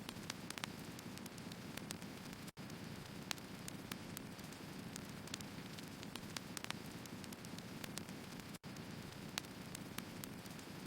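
Wood fire burning: a steady low rush of flames with frequent sharp crackles and pops from the burning logs. The sound cuts out to silence for an instant twice.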